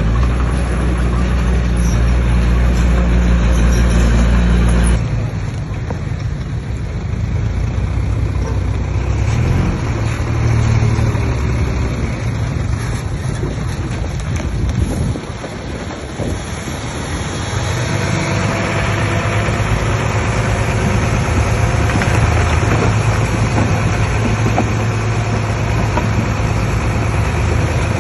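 Heavy diesel engine of earthmoving machinery running, its steady low note dropping about five seconds in, dipping around fifteen seconds, then rising again.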